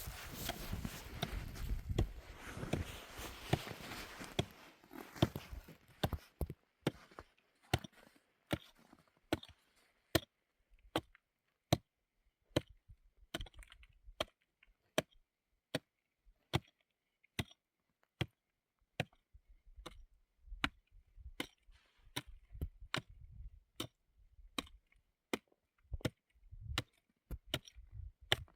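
Rustling and scraping for the first few seconds, then a steady series of sharp chopping knocks, a little more than one a second.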